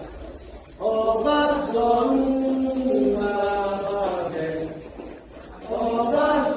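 Voices chanting a Candomblé song in long held notes that step slowly up and down, with a break about a second in. A shaker-like rattle keeps a fast steady pulse underneath.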